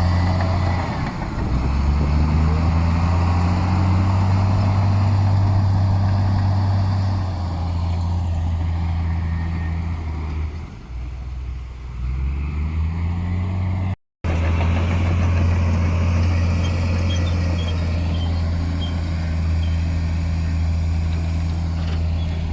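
Heavy diesel engine of earthmoving machinery running under varying load. Its note shifts and eases off for a couple of seconds a little before halfway, then picks back up, with a brief dropout about two-thirds in.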